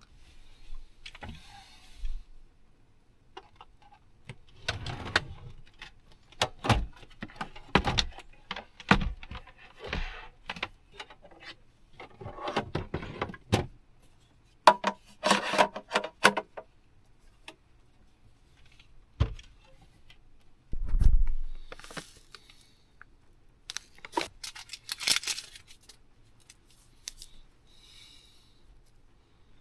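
Kitchen utensils and containers being handled during food preparation: irregular clinks, knocks, scrapes and rustling, with a few louder thumps.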